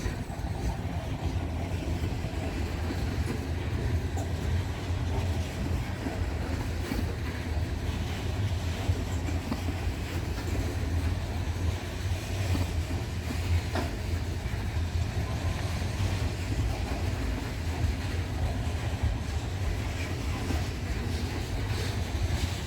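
Loaded Norfolk Southern coal train rolling steadily past: a continuous low rumble of the freight cars, with a few faint clicks of wheels over the rail.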